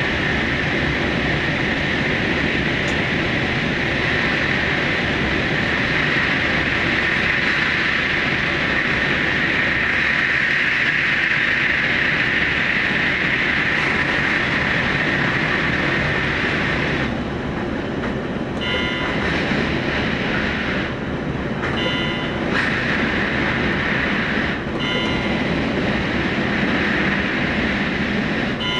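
Electric limited express train running at speed through a tunnel, heard from the cab as a steady rumbling rush. About two-thirds of the way through, the noise dips slightly and short high-pitched tones come and go.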